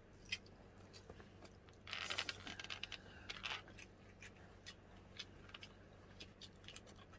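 Faint mukbang eating sounds: chewing with many small clicks and crunches, and a louder, noisier stretch of crunching about two seconds in.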